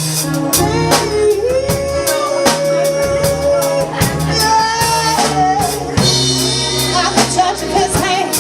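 Live band music with a singer, drum kit and bass; the singer holds one long note from about a second and a half in to about four seconds in.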